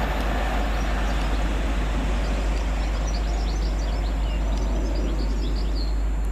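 Great Western Railway Class 800 train passing at speed on the fast line: a steady loud rush of wheels on rail and air, easing off just after the end. Small birds chirp faintly over it.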